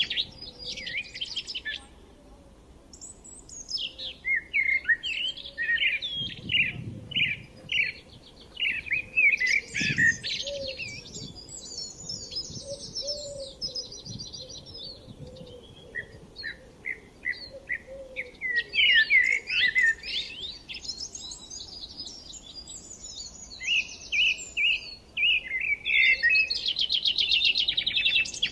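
Several songbirds singing and chirping at once, their songs and calls overlapping, with a fast, even trill at the start and again near the end.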